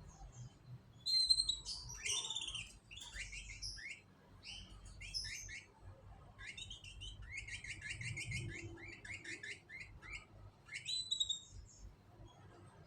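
Canary singing: bursts of high chirps and fast trills, with a long run of rapidly repeated notes in the middle of the song.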